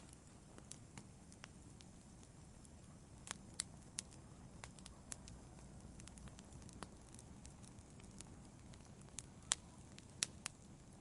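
Wood fire in a fireplace crackling: scattered sharp pops over a faint low hiss of the flames, the loudest pop about nine and a half seconds in.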